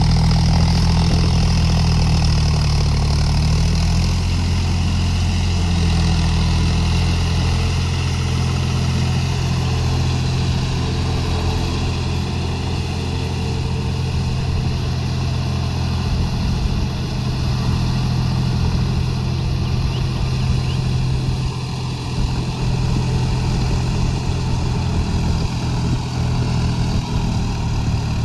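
John Deere 5050D tractor's three-cylinder diesel engine running steadily, its pitch easing down slightly in the first few seconds.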